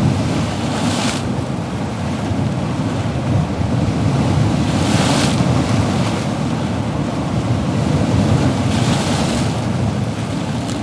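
Ocean surf: a steady low rumble of waves, with a hissing wash of breaking water swelling up about every four seconds, three times.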